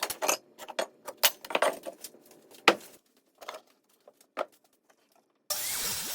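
A run of sharp knocks and clicks, like lumber being handled, with one loud knock near the middle. About five and a half seconds in, a power tool starts abruptly and runs loud and steady, with its pitch shifting under load.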